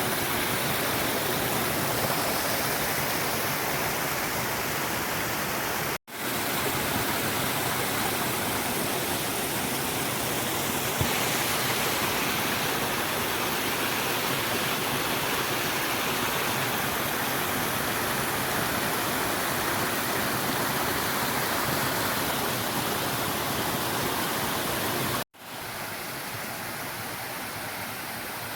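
Creek swollen by heavy rain, its fast-flowing water rushing in a loud, steady roar. The sound breaks off abruptly twice and comes back a little quieter after the second break.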